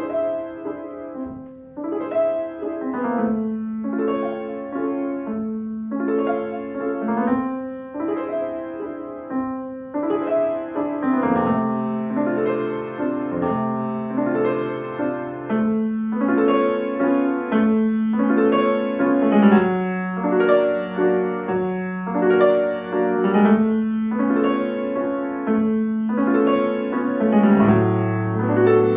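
Solo piano playing a piece: chords and melody notes struck in a regular pattern, each ringing and decaying, with low bass notes coming in now and then.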